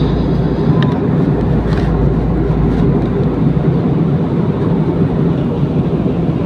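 Steady drone of an airliner cabin: jet engine and airflow noise heard from inside the plane, loud and unchanging, with a few faint clicks.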